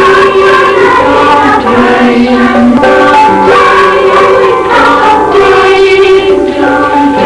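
Children's school choir singing a Christmas song together.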